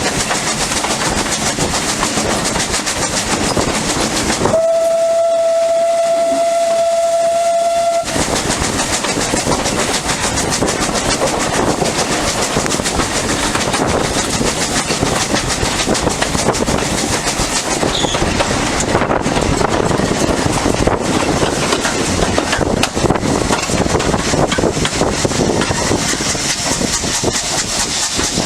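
A steam locomotive's whistle sounds one long steady note for about three and a half seconds, starting about five seconds in, over the continuous noise of the train running along the line.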